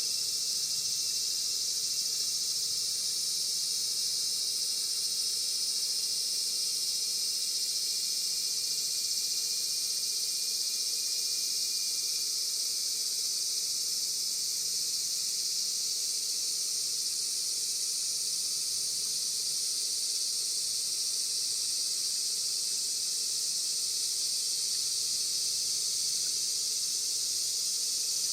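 A steady, unbroken chorus of insects, a high continuous buzzing drone that neither rises nor falls.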